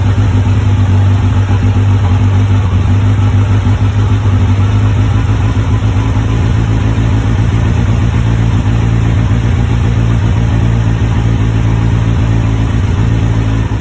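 Kawasaki Ninja 1000SX inline-four engine running steadily through its exhaust, a loud even engine note with no revving.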